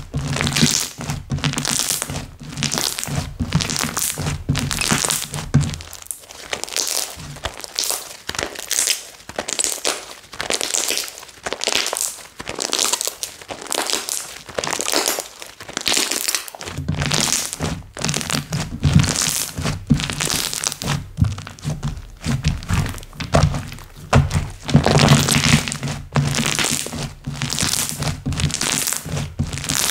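Slime being squished and pressed by hand, giving repeated popping and crackling clicks as trapped air bursts, about one or two a second.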